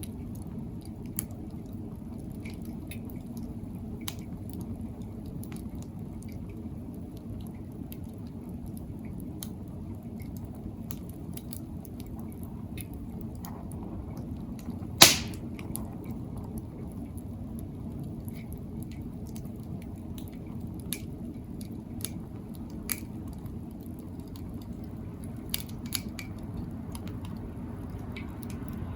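Wood fire burning in a fire pit: a steady low rumble of flame with scattered crackles and pops, and one loud pop about halfway through.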